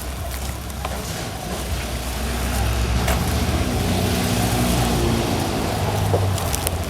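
A motor vehicle's engine running with road noise. The low engine hum grows louder over the first few seconds.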